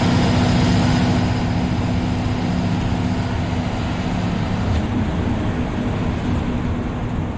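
Bus diesel engine running steadily under way, with a low drone and a steady hum of tyre and road noise, heard from inside the driver's cabin.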